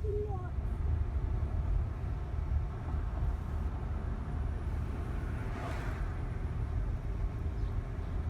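Steady road and engine rumble heard inside a slowly moving car, with a louder rushing swell about five and a half seconds in.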